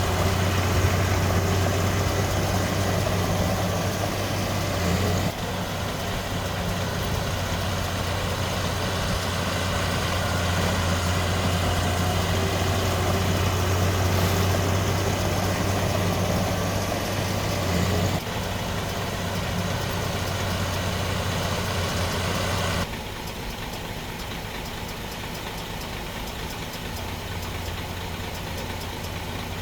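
Diesel engines of earthmoving machines running steadily with a low hum. The sound shifts abruptly a few times, about 5, 18 and 23 seconds in, and is quieter after the last change.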